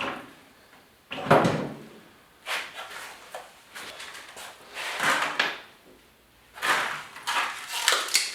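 A string of separate knocks and clatters, the loudest about a second in, with a busier run of clattering near the end: tools and hardware being handled.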